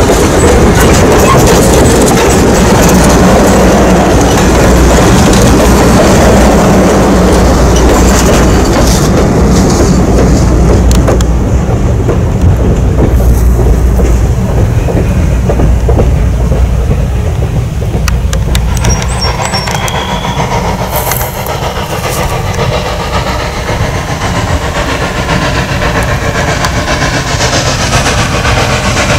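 Wooden passenger coaches rolling past on jointed track with a steady low rumble and wheel clickety-clack, fading about halfway through as the train moves off. In the second half a steam locomotive, Norfolk & Western 4-8-0 No. 475, is heard in the distance as it approaches, growing a little louder toward the end.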